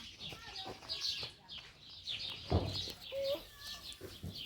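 Birds chirping over and over in quick high calls, about two a second, with a knock a little past halfway.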